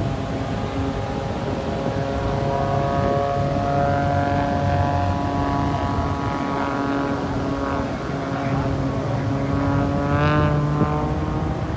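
An engine running steadily, its pitch drifting up and down, then rising quickly about ten seconds in before settling.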